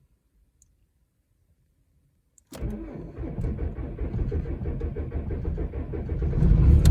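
2002 VW TDI's 1.9-litre ALH four-cylinder turbodiesel cold-started at about zero degrees Fahrenheit after two glow-plug cycles. After a click about two and a half seconds in, the starter cranks it unevenly for about four seconds, and it catches and runs louder near the end. It is a hard start, but the new AGM battery keeps it cranking strongly.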